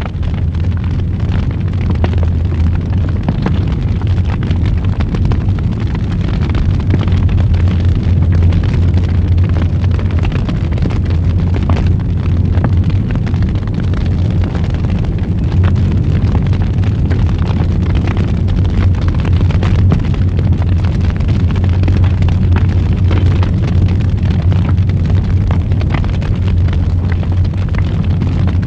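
Wood fire burning in a fireplace, crackling and popping continually over a steady low rumble.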